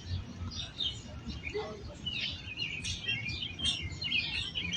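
Several songbirds chirping and trilling, with the calls coming thicker about halfway through, over a low background rumble.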